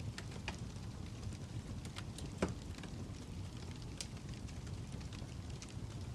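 Fire crackling: a steady low rumble with scattered sharp pops and snaps, the loudest about two and a half seconds in.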